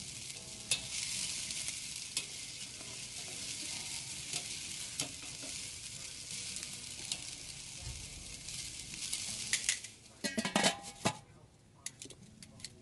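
Chicken wings sizzling and crackling over hot charcoal on a Weber kettle grill. Near the end comes a short clatter, and after it the sizzle drops away.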